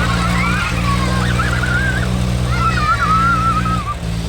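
Tractor diesel engine running steadily and hard, with a wavering melody, music or singing, heard over it.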